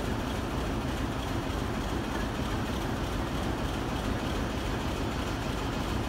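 Steady low rumble of an approaching diesel-hauled passenger train, its locomotive still some way off down the line.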